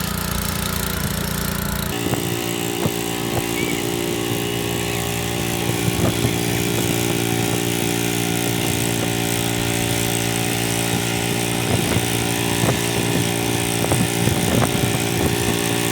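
Small engine of a modified garden pulling tractor running hard under load during a pull. The engine note shifts higher about two seconds in, then holds steady.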